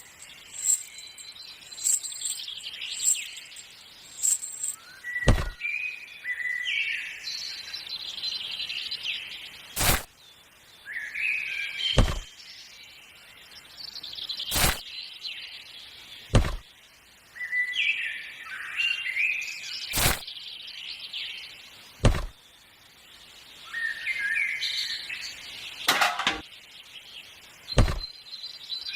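Birds chirping in short bursts of rising and falling notes, with sharp clicks or knocks every few seconds and a run of lighter ticks near the start.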